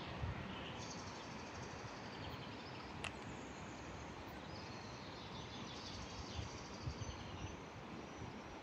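Faint outdoor ambience: birds chirping over a steady low background rumble, with a single sharp click about three seconds in.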